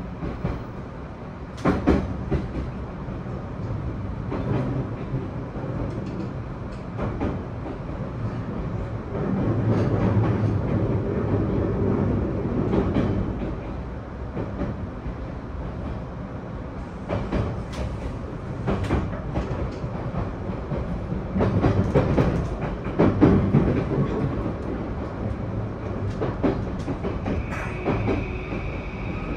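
Running noise of a JR E235-1000 series electric train with Mitsubishi full-SiC VVVF drive, heard from inside the passenger car: a steady low rumble with scattered sharp clicks of the wheels passing rail joints. It grows louder for a few seconds about ten seconds in, and a steady high whine comes in near the end.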